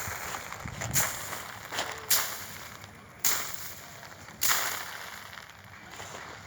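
Repeated sharp swishing strikes, about one a second, each dying away in a hiss; five of them, then they stop about four and a half seconds in.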